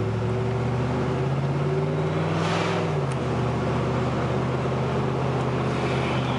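Car engine and road noise heard from inside the moving car. The engine hum climbs slowly in pitch, drops about three seconds in, then runs steady.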